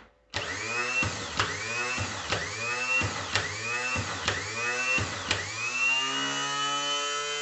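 VW Voyage starter motor, just rebuilt, being bench-tested: a click, then the motor spinning up with a rising whine, repeated about once a second. From about six seconds in it stays energised and runs at a steady high whine. The starter is working after its rebuild.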